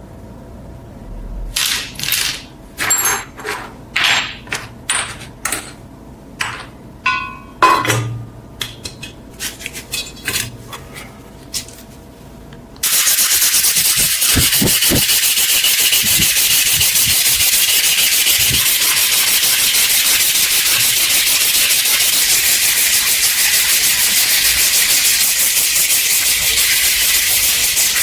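Scattered light knocks, clicks and scrapes of the knife and tools being handled, then about halfway through a loud, steady abrasive hiss of sanding starts suddenly and keeps going.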